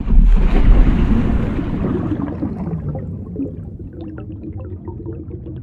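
Underwater bubbling sound effect: a loud rush of water that fades over about three seconds, followed by scattered small bubble pops.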